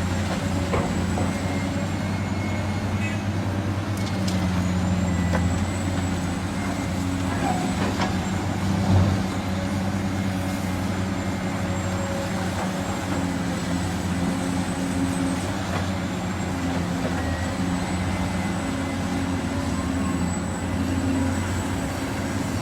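Heavy diesel construction machinery running steadily, excavator and dump truck engines, with a thin high whine above the engine drone and one louder thump about nine seconds in.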